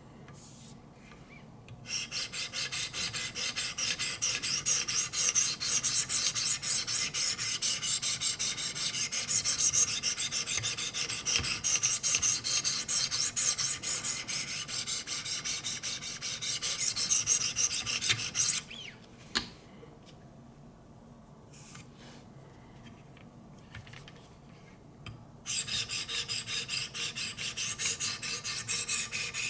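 600-grit sharpening stones of a guided knife sharpener stroked quickly along an S90V steel blade, a steady scratchy rasp. The strokes stop for several seconds partway through, with a single click in the pause, then start again near the end.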